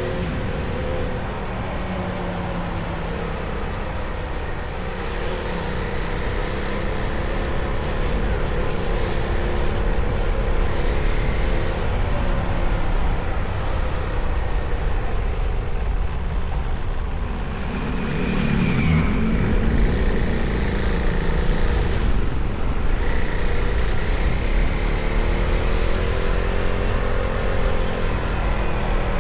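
Motorcycle engine running, its pitch slowly rising and falling with the revs, over a steady low rumble.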